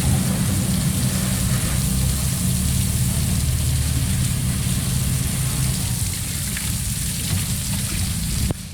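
Steady engine running under a hissing spray of water, which cuts off abruptly near the end.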